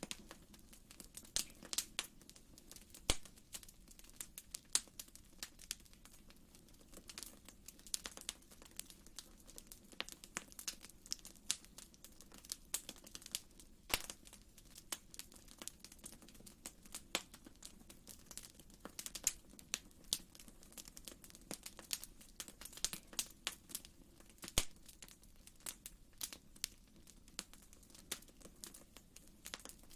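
Wood fire crackling in a fireplace: irregular sharp pops and snaps over a steady faint low rumble.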